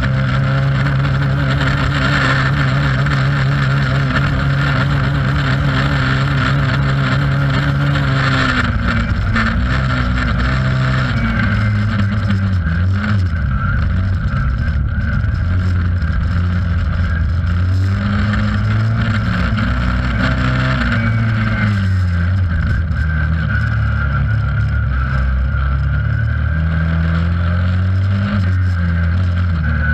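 Race car engine heard from inside its stripped cabin, running hard under load. It holds a steady high pitch at first, drops about eight seconds in, and then rises and falls with the throttle through the rest of the lap.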